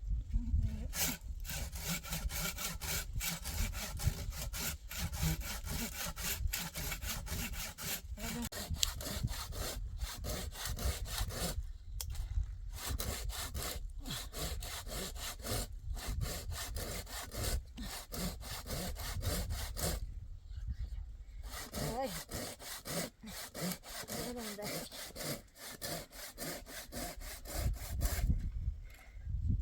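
Hand saw cutting through wood in quick, regular strokes, with a couple of brief pauses.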